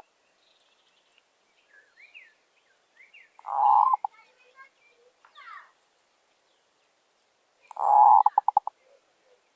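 Zebra dove cooing twice, each a rolling coo that ends in a quick string of short clipped notes; the second coo has the longer string. Faint chirps of small birds come in between.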